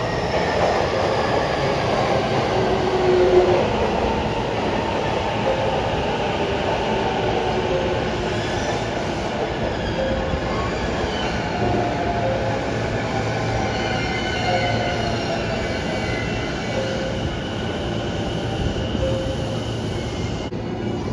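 JR 209-series electric commuter train running on rails, its motor whine falling slowly in pitch as it slows, with wheel squeal and rolling noise.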